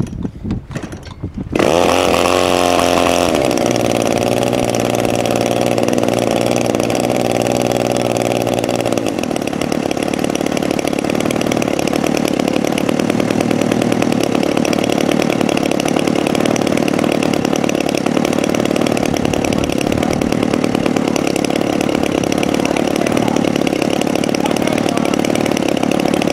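Small RC model-airplane engine starting up about a second and a half in, then running steadily with a raspy, chainsaw-like tone. Its pitch shifts a couple of times as the throttle changes.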